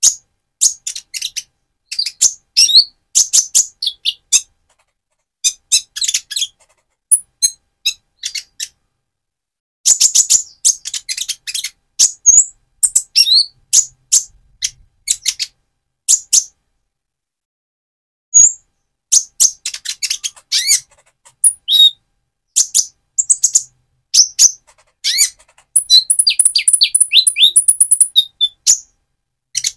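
Young purple-throated sunbird (Leptocoma sperata) singing: rapid bursts of high, sharp chirps and squeaky notes with short pauses between phrases, and a fast high trill over falling notes near the end.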